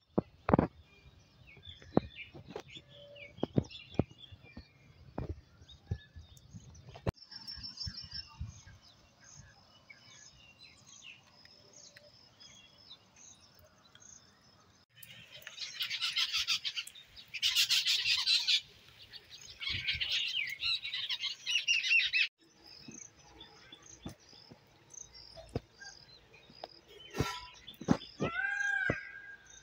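Songbirds calling: a run of short, high repeated chirps, then a loud, dense spell of chattering calls in the middle, and a few falling whistled notes near the end. Scattered sharp ticks come in the first several seconds.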